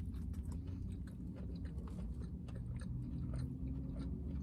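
Close-up chewing of a bite of pita wrap, with a run of small wet mouth clicks and smacks.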